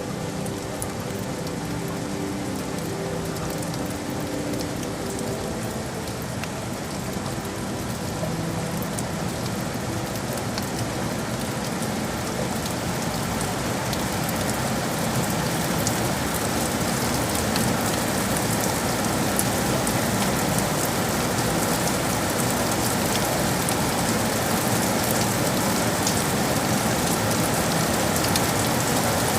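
Steady rain falling on city surfaces: an even hiss dotted with the ticks of single drops. It grows gradually louder over the first half.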